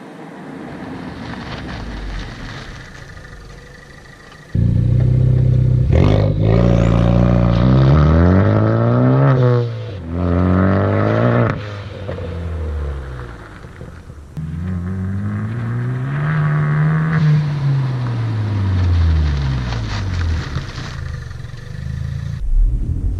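Ford Focus ST's turbocharged 2.0-litre four-cylinder engine and exhaust, getting much louder about four and a half seconds in. The revs climb twice with a sharp drop between them, like upshifts under acceleration, then rise and fall smoothly once more.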